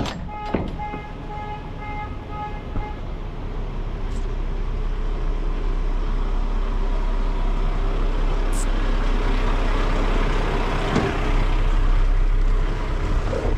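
Semi-truck running on the road, its engine and road noise building steadily louder as it gets moving. A short run of electronic beeps sounds in the first few seconds.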